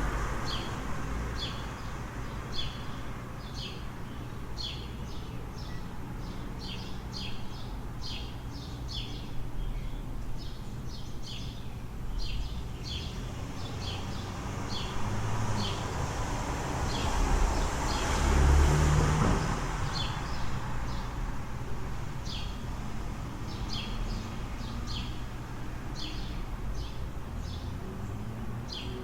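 Small birds chirping in short, quick repeated calls over a steady low city rumble. A vehicle passes about two-thirds of the way through, swelling and fading over a few seconds.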